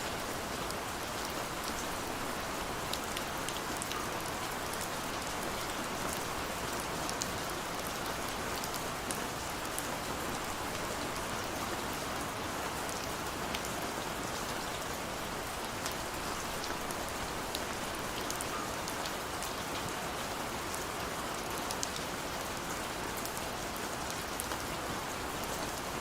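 Steady rain falling on hard surfaces, an even hiss with scattered small drop ticks.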